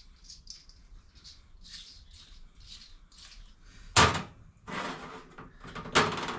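Two sharp knocks of hard objects being set down or bumped on a work surface, about two seconds apart, with rustling and handling noise between them. Faint, evenly spaced hissy ticks run quietly underneath before the first knock.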